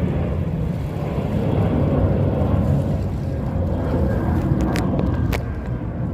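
Rainy street ambience dominated by a steady low rumble of road traffic, with two sharp clicks about five seconds in.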